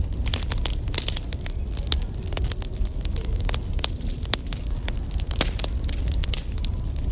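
Wood fire crackling: many irregular sharp pops and snaps over a low steady rumble.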